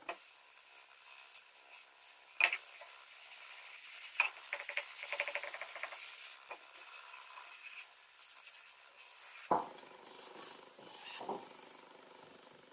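Pieces of wood being handled and fitted together, with rubbing and scraping, several sharp knocks and a quick run of small clicks about halfway through.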